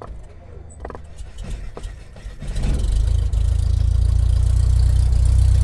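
An engine starting: a few clicks and knocks, then about two and a half seconds in it catches and runs steadily and loudly before cutting off abruptly.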